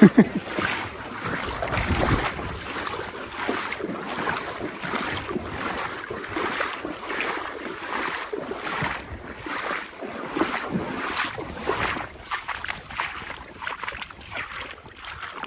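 Legs wading through shin-to-knee-deep floodwater: a splash and swish of water with each stride, about one to two strides a second, after a heavier splash at the very start.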